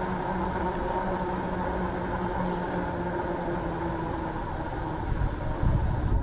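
Steady hum of motor vehicles with several held tones over a low rumble; the rumble swells in the last second.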